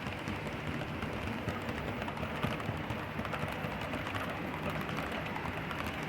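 HO-scale model train running on track with its sound decoders muted: a steady rolling rumble of small metal wheels and locomotive motors, with a fine scatter of light clicks.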